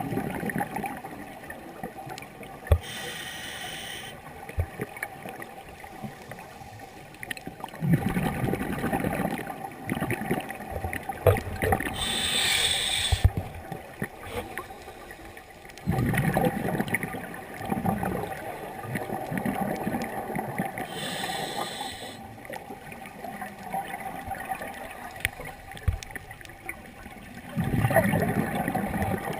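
Scuba diver breathing through a regulator underwater, about three breaths: each inhalation is a short hiss, followed a few seconds later by the louder bubbling rumble of the exhalation.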